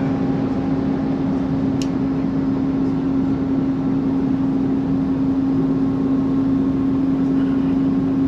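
Steady cabin noise of an Airbus A330 airliner in cruise: an even rushing roar with a constant hum through it.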